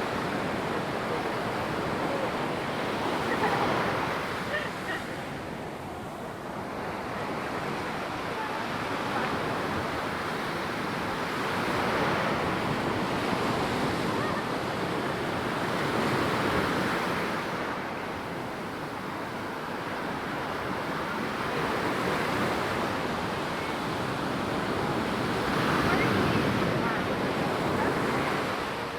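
Ocean surf breaking and washing up the beach, swelling and ebbing in slow waves every several seconds.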